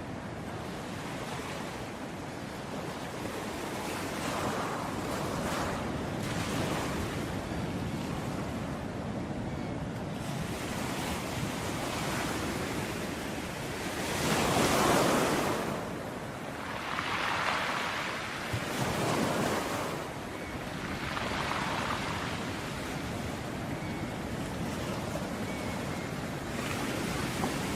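Ocean waves breaking on a beach: a steady wash of surf with waves swelling and crashing, the loudest about halfway through, followed by a few smaller ones.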